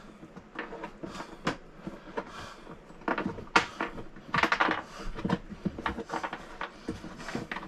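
Irregular small clicks, taps and rustles of hands handling parts behind an RV toilet while searching for a disconnected water supply line.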